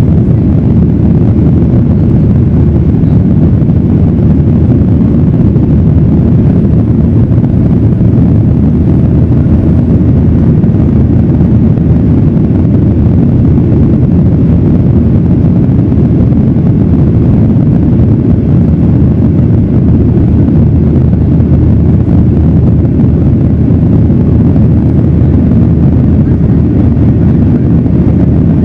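Steady, loud, low rumble of a Boeing 737-900ER's CFM56-7B jet engines and airflow heard inside the cabin, with no change in level.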